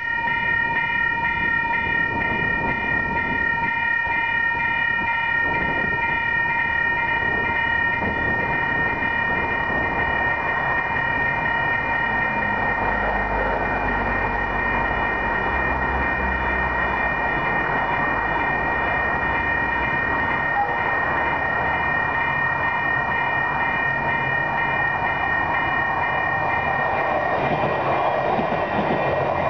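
Diesel passenger train approaching and then passing close by, with a low engine rumble building about halfway through and rail noise rising toward the end. Over it, a continuous high ringing tone made of several pitches at once sounds and stops shortly before the end.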